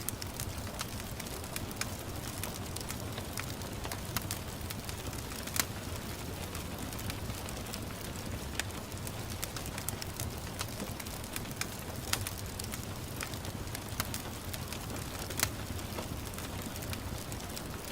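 Wood fire crackling in a fireplace: a steady low rumble and hiss with frequent small snaps and a few louder pops.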